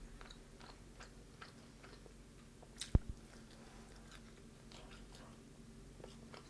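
Chewing of crispy deep-fried chicken: soft crunches and small mouth clicks, with one sharp knock about three seconds in.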